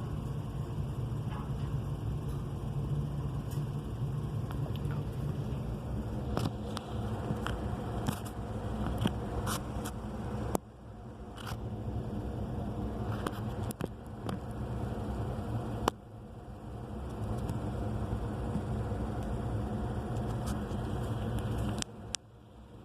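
A pet bird clicking and scraping with its beak, in scattered irregular sharp clicks, over a steady low hum.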